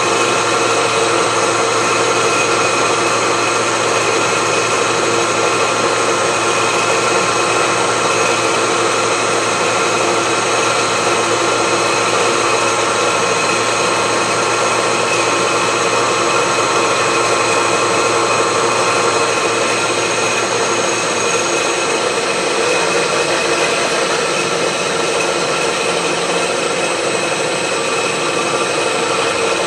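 Milling machine running with its cutter taking a pass through a steel wood-chipper blade: a steady machine whine with a grinding cutting noise. A lower hum drops out about two-thirds of the way through.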